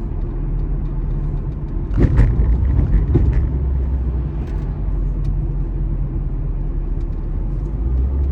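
Steady low rumble of a car heard from inside the cabin, with a short burst of knocks and handling noise about two seconds in.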